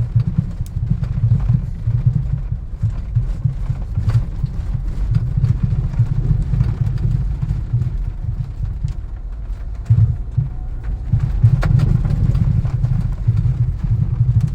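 Worn-out Partsmall right strut on a Chevrolet Captiva C100 knocking with heavy, dull thuds over road bumps, an irregular booming over the car's steady road rumble with a few sharper knocks. The strut is empty, having lost its damping after just over 5000 km.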